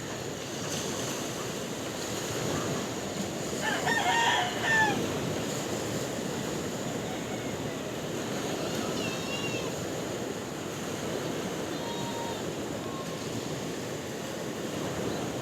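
Steady sea surf with a rooster crowing once, about four seconds in, the loudest sound. A few faint, short, high chirps come later.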